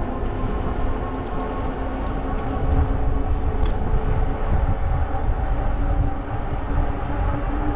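Wind buffeting the microphone and tyres rolling on a trail while riding an e-bike. A steady whine, plausibly from the electric motor, shifts slightly in pitch near the end.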